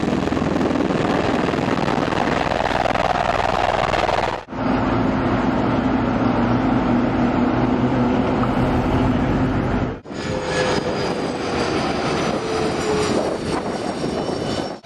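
Loud aircraft engine noise from a flying display, in three segments cut one after another. The second segment carries a steady low hum, and in the last a tone slowly falls in pitch.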